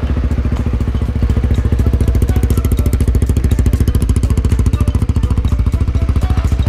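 Honda RS150R's single-cylinder four-stroke engine idling steadily through an aftermarket Cozy exhaust, with an even run of firing pulses.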